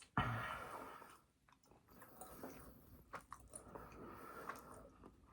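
Close-up eating sounds: a sudden loud mouth noise just after the start that fades over about a second, then chewing with wet smacks and clicks.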